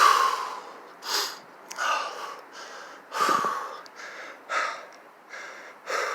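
A man breathing hard: short, forceful, noisy breaths, about one a second.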